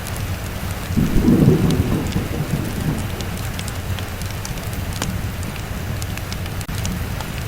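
Steady rain with a low roll of thunder that swells about a second in and fades over the next couple of seconds, with scattered sharp ticks over the hiss.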